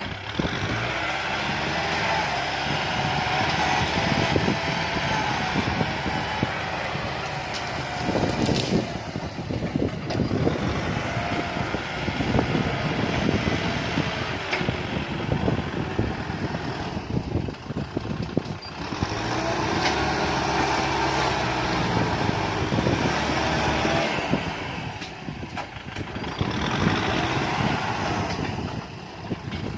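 Kubota M6040 tractor's diesel engine running hard, its revs and level rising and falling, with a few brief dips.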